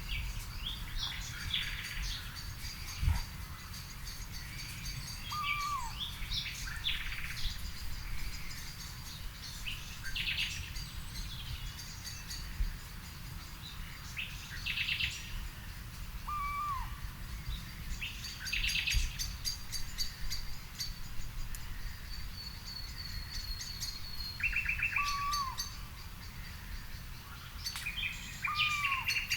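Several birds singing and calling, with many short, high chirps and trills. A lower, arched call comes back four times, about every ten seconds, over a steady low rumble.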